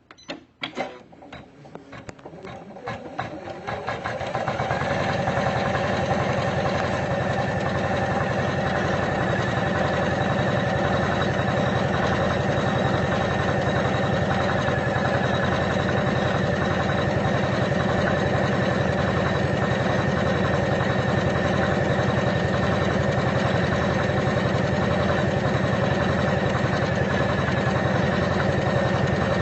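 Janome Memory Craft computerized embroidery machine starting up to stitch the next thread colour: a few separate needle strokes at first, quickening over about four seconds, then running steadily at full embroidery speed in a fast, even rhythm.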